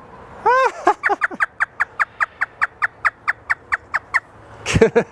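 African grey parrot doing its imitation of a hysterical laugh: a couple of drawn-out notes, then a long, rapid run of short, even "ha" notes at about six or seven a second, with a brief lower burst near the end.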